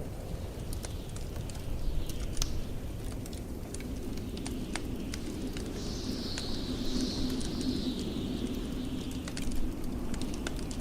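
Crackling wood fire with sharp, scattered pops over the steady low rumble of blizzard wind. About six seconds in, a high hiss slides slowly down in pitch.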